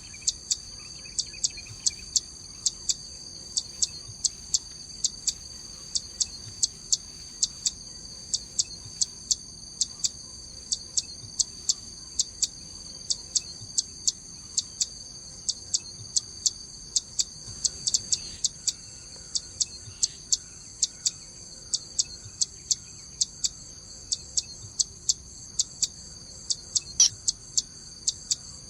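Zitting cisticola giving its sharp, evenly repeated 'zit' calls, about two to three a second, over a steady high insect hum. One louder call comes near the end.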